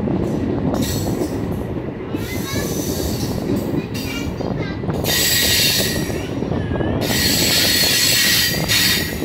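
MEMU electric multiple-unit train running, with a steady rumble of wheels on the track. High-pitched wheel squeal comes and goes several times, longest in the second half.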